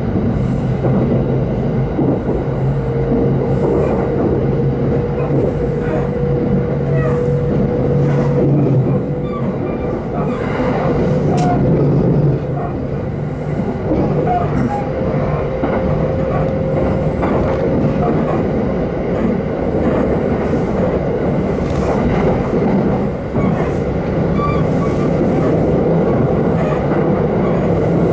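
Inside an electric commuter train running at speed on the JR East Takasaki Line: a steady rumble with a thin, faint whine that rises slightly, and scattered clicks of the wheels over the rails.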